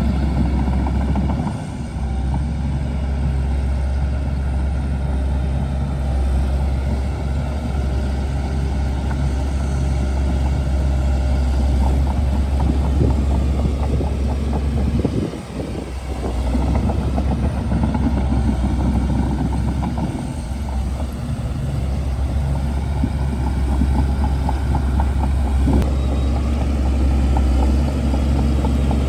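Shantui DH17C2 bulldozer's diesel engine running steadily with a deep drone. It dips briefly about halfway through, then picks up again.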